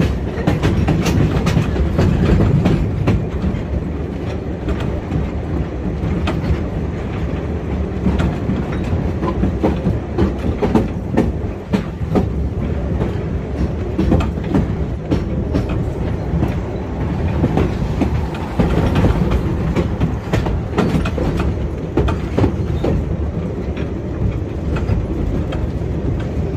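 Wooden train carriage running along the track: a steady low rumble of the wheels, with frequent clattering and rattling as it rolls.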